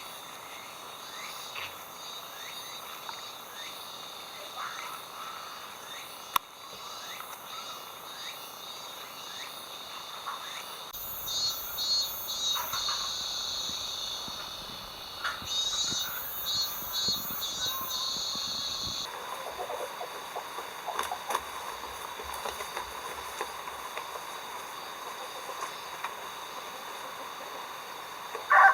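Crickets and other autumn insects chirping steadily in several high, continuous tones. A louder, rapidly pulsing insect call joins in from about a third of the way in until about two-thirds through.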